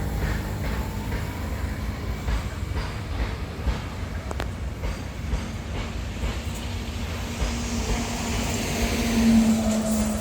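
Freight train rolling past: a steady low rumble of the wagons with scattered clicks and knocks from the wheels on the track. A low steady hum swells louder near the end.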